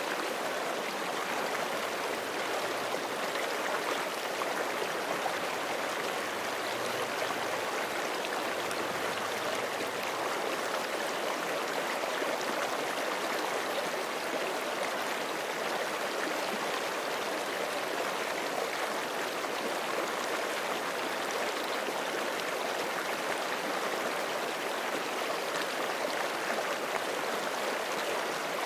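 Forest creek flowing steadily over rocks: a continuous, even rush of running water with no pauses or changes.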